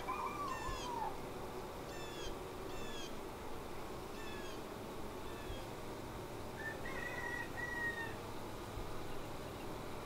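Birds calling: a series of short, falling chirps about once a second, then a longer two-part note about seven seconds in, over a faint steady hum.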